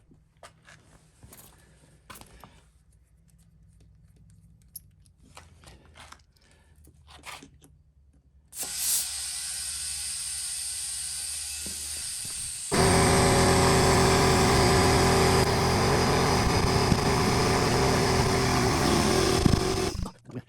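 Air compressor pumping air into a punctured truck tire to firm it up. After a few light handling clicks, a steady hiss starts about a third of the way in, turns much louder with a steady motor hum about halfway through, and cuts off just before the end.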